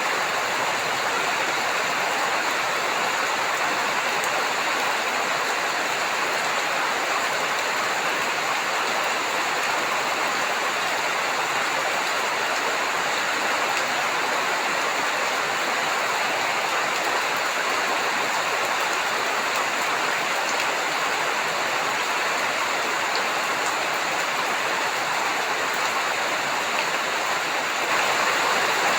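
Heavy rain falling steadily, an even hiss with no thunder, a little louder near the end.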